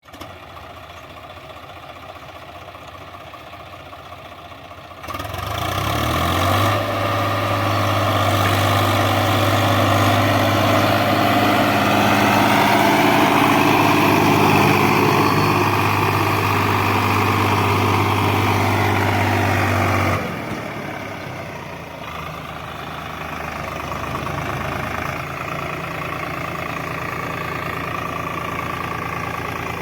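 Swaraj 744 FE tractor's diesel engine running. It is quieter for the first five seconds, then loud with a steady low hum from about five seconds in, and drops back to a lower, steady run at about twenty seconds.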